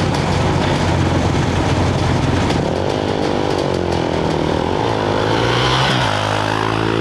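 Off-road race motorcycle engines revving at the start line. One engine's pitch rises and falls in the middle, then a bike holds a steady idle from about six seconds in.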